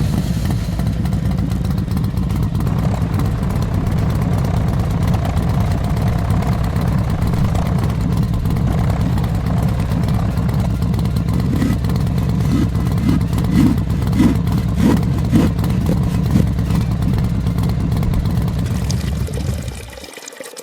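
An engine running steadily with a low, rapidly pulsing rumble, a few louder knocks about two-thirds of the way through, and an abrupt stop near the end.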